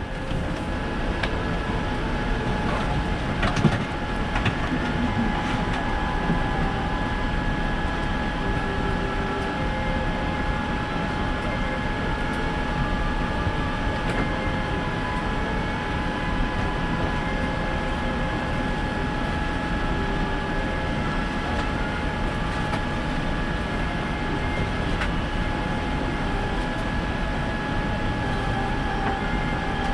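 Steady cabin noise inside a Boeing 787-9 airliner: an even rushing hum with a steady high whine over it, and a brief click about three and a half seconds in.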